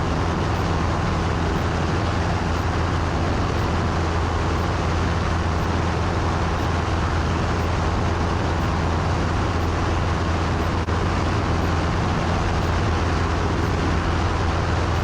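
Steady drone of a light aircraft's piston engine and propeller in cruise, heard from inside the cabin: an even low hum with a constant pitch and rushing noise over it, unchanging throughout.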